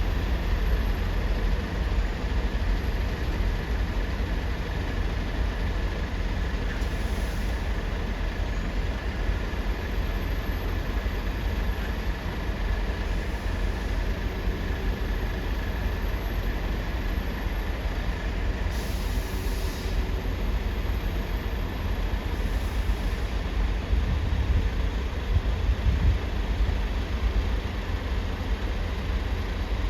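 Steady low rumble of heavy engines, with a faint steady whine and a few brief hissing bursts.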